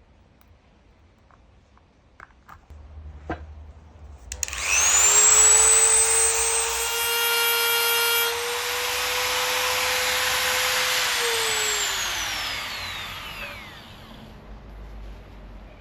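Small high-speed rotary tool switched on: its motor whines up to a steady high pitch, runs for about seven seconds, then winds down with a falling whine. A few light clicks and a knock come before it starts.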